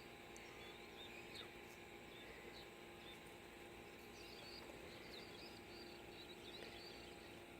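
Faint scattered bird chirps and calls over a quiet rural background with a steady faint hum.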